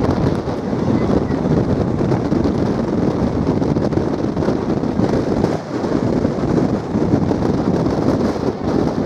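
Passenger train running at speed: a steady rumble of the coach and wheels on the rails, with wind buffeting the microphone.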